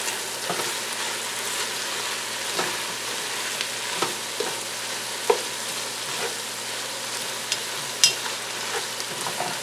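Bacon, onions and mushrooms sizzling in a large nonstick stockpot while a spatula stirs them, with a steady hiss and occasional short scrapes and taps of the spatula against the pot.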